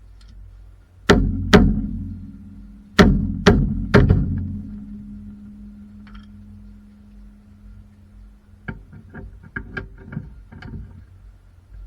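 Five sharp hammer blows on a ringing metal part, two and then three about half a second apart, each leaving a ringing tone that hangs for several seconds. The ringing is cut off suddenly, and a quick run of lighter metallic taps and clicks follows.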